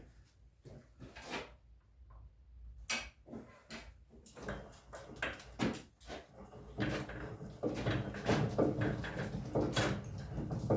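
Scattered knocks and clunks, as of tools and metal parts being handled, becoming a denser, continuous clatter about two-thirds of the way in.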